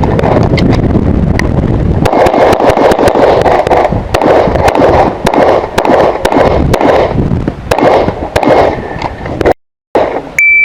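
Quick strings of .40 S&W pistol shots from an STI 2011 competition pistol, the shots coming fast with short pauses between strings. Near the end the sound cuts out briefly and a short high electronic beep follows, like a shot timer's start signal.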